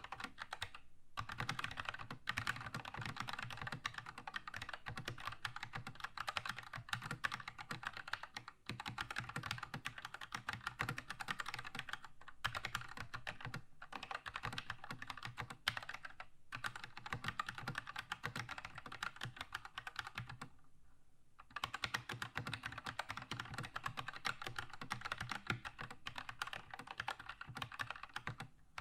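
Fast continuous typing on a Keychron K2 mechanical keyboard with red linear switches, a dense run of key clacks broken by a few brief pauses, the longest about two thirds of the way through.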